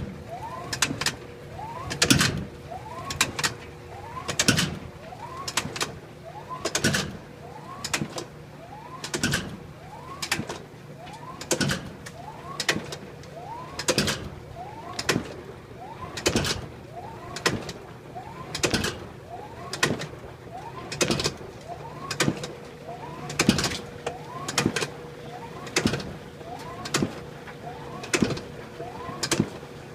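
GE Profile washing machine running a wash with a loud, regular knock about once a second, each followed by a short rising squeal, over a steady motor hum. This is the fault the owner heard after replacing the belt and motor.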